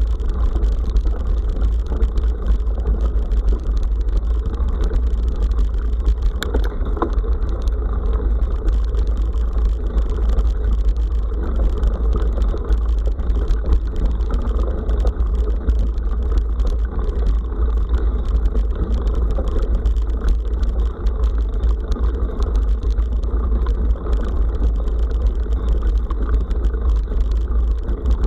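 Steady wind buffeting on an action camera's microphone while riding, a heavy low rumble with a dense rushing noise over it and the crunch of tyres rolling on a forest road.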